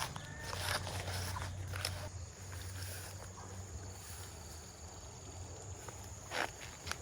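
Scattered rustles and light knocks, a few seconds apart, over a low hum that fades after about two seconds and a faint steady high whine.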